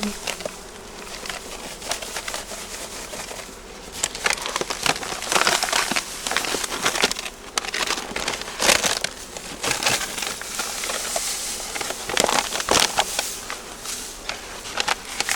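Irregular crinkling and rustling, as of something being handled, with scattered clicks and several louder bursts through the middle and later part.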